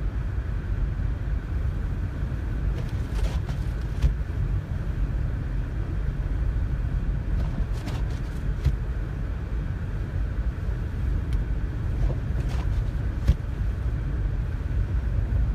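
Steady low rumble of a car driving, heard from inside the cabin, with a few brief clicks or knocks here and there.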